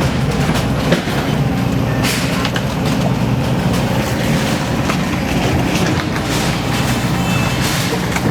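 Steady heavy engine rumble with scattered knocks and rattles, the loudest about two seconds in.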